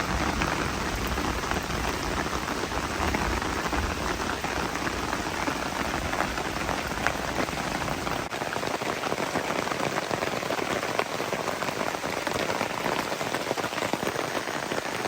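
Heavy rain falling on a tarp overhead, a dense steady hiss full of small drop ticks. A low rumble underneath drops away about eight seconds in.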